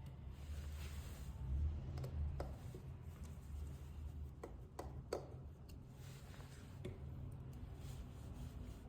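Faint, scattered clicks and taps of small hand tools against an iPhone XR as it is being opened, several of them a second or so apart, over a low steady hum.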